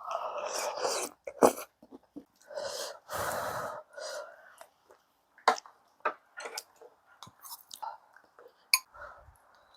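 A person eating: a few breathy slurps or blows, each about a second long, and scattered sharp clicks of utensils.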